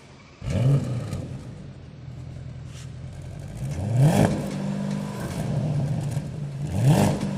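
Porsche Panamera Turbo's twin-turbo V8 starting up about half a second in with a rev flare, settling to idle, then revved in two short blips, one about four seconds in and one near the end.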